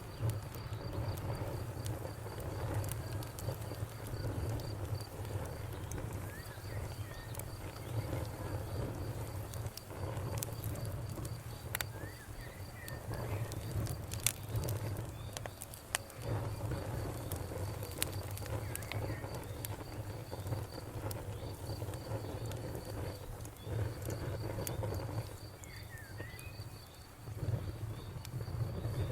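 Campfire crackling with scattered sharp pops over a low rumble. A fast, high, pulsing insect trill runs underneath, and a few short bird chirps come and go.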